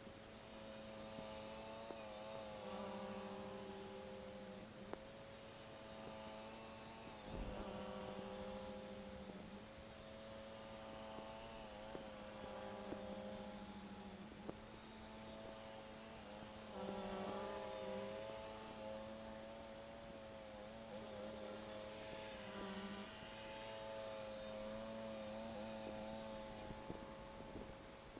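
John Deere X520 lawn tractor's engine running, with a hiss that swells and fades every four to five seconds as it works back and forth.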